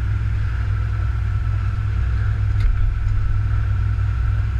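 1981 Camaro race car's engine running steadily at low revs, a deep, even rumble heard from inside the cabin.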